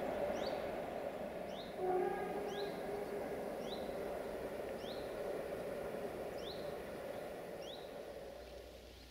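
A small bird repeating a short rising chirp about once a second, over a steady background hum that fades near the end.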